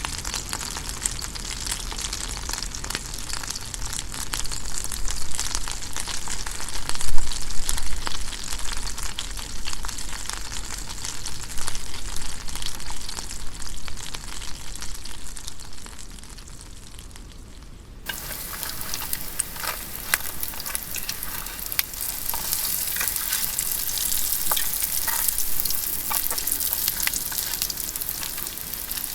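Steady sizzling and crackling, dense with small pops. About two-thirds of the way through it changes abruptly to a brighter, hissier crackle.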